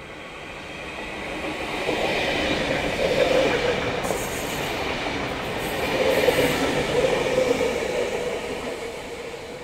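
V-set double-deck intercity electric train passing through the station without stopping. Its rumble and a steady whine build from about a second in, stay loud through the middle and fade as it goes by.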